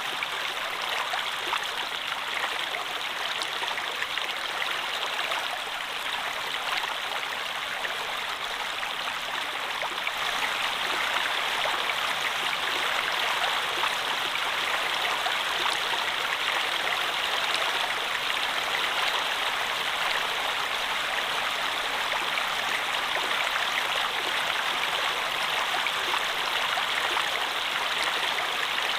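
Flowing stream water, a steady rushing and splashing that keeps on evenly throughout.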